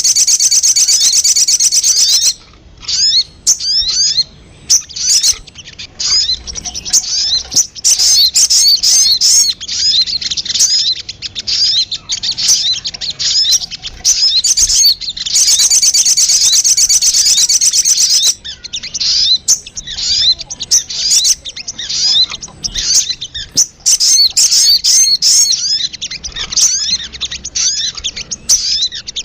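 Little spiderhunter (sogon) calls played as a bird lure: a long rapid high trill at the start and another about halfway, with fast runs of sharp, high chirps between.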